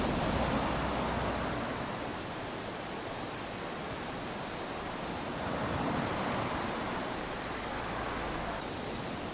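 Small ocean waves lapping onto a sandy beach: a steady wash of surf, swelling as a wave comes in at the start and again about six seconds in.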